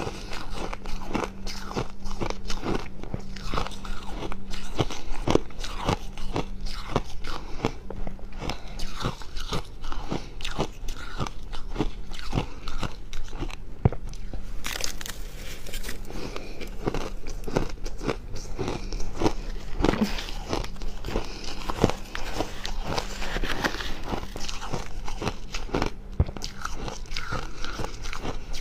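Close-miked biting and chewing of fluffy freezer frost: a dense, continuous run of dry crunches and crackles.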